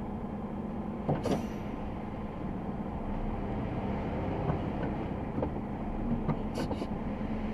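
Scania XT G500 8x8's diesel engine running steadily, the truck laden with about 50 tonnes of rubble. A couple of short knocks with a brief hiss come about a second in and again near the end.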